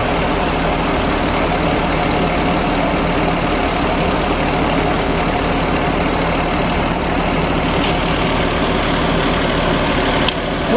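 Heavy diesel engine of a fire truck idling steadily.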